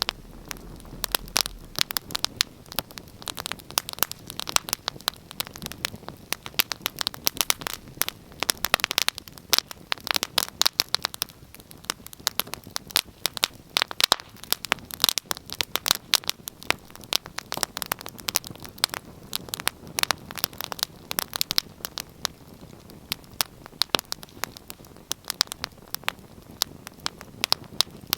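Wood fire burning in a fireplace: many irregular sharp crackles and pops over a soft steady hiss of flames.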